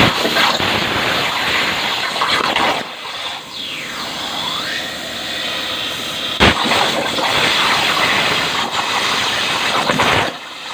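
CNC plasma cutter's arc cutting steel: a loud, harsh hiss that starts abruptly, dips briefly about three seconds in, has a single sharp crack midway, and cuts off near the end.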